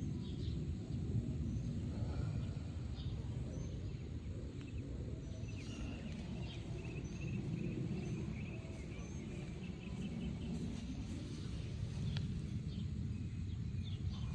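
Outdoor ambience: a steady low rumble with faint bird chirps scattered throughout, including a run of chirping around the middle.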